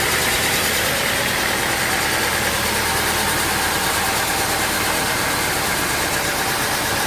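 A sawmill's engine-driven machinery running steadily, an even drone that holds without change.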